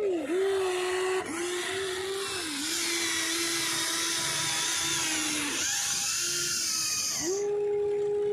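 Small electric motor of a radio-controlled model excavator whining steadily, its pitch dipping briefly several times as the load changes, and fading for a moment about two-thirds of the way through before coming back, with a hiss above it.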